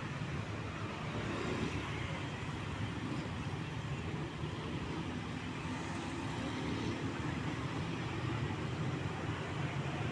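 Heavy trucks' engines running in passing road traffic: a steady low rumble, with a faint engine tone rising out of it about halfway through.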